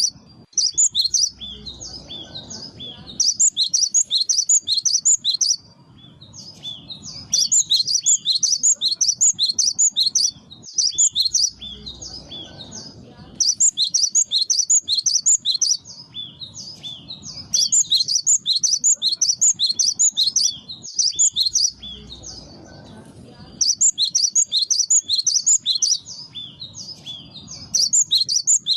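Cinereous tit (gelatik batu) singing its lure song: bouts of rapid, sharp, high repeated notes, each lasting about two to three seconds, coming again and again after short pauses.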